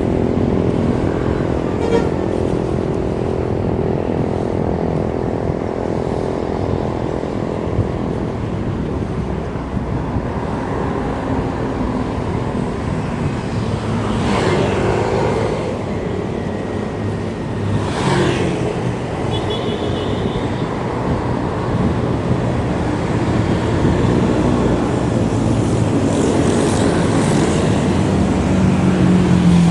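Road traffic heard from a moving bicycle: a steady rush of traffic and road noise, with vehicles passing close about halfway through and again a few seconds later.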